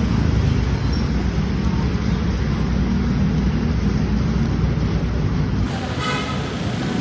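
Steady low rumble of a motor vehicle on the road, heard from inside while riding. It changes abruptly near the end.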